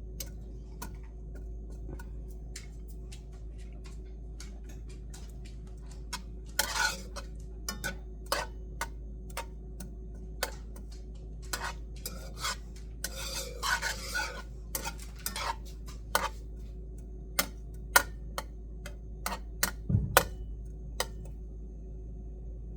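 Kitchen utensils clinking and scraping against a pan: irregular sharp clicks with two short stretches of scraping, over a steady low hum.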